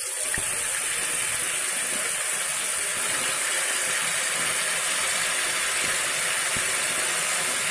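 Yogurt-marinated chicken pieces sizzling as they fry in hot oil in a frying pan: a steady, hissing sizzle that starts suddenly as the chicken goes into the oil.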